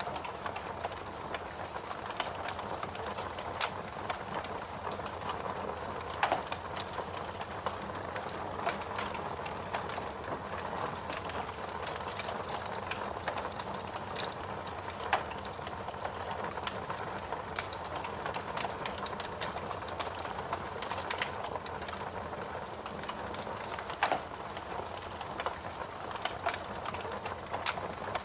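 Wood logs burning in a fireplace: a steady hiss of flames with a continuous scatter of small crackles and a few louder pops.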